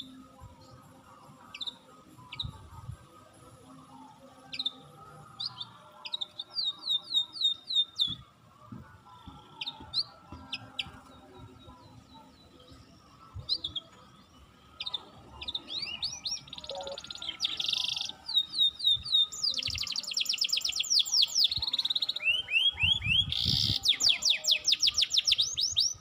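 Wild songbirds calling and singing: scattered short high chirps at first, building in the second half to fast runs of repeated down-slurred notes that grow denser and louder toward the end.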